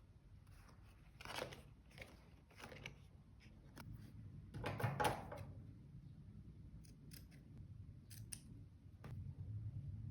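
Scissors cutting paper: a few separate snips, then a longer, louder cut about five seconds in, followed by a few light clicks.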